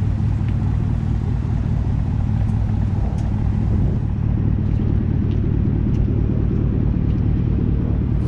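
2012 Chevrolet Camaro SS's V8 engine idling steadily, a low even note that neither rises nor falls.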